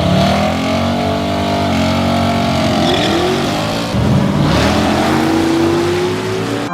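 Motor vehicle engine running hard under acceleration, its pitch shifting. There is a loud break about four seconds in, then the pitch climbs steadily.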